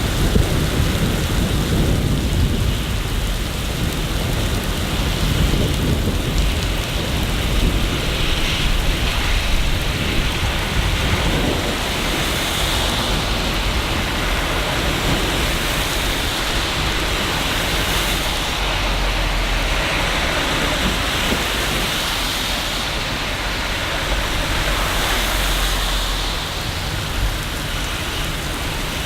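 Steady rain falling on hard city surfaces, with low rumbles of thunder in the first few seconds and again near the end.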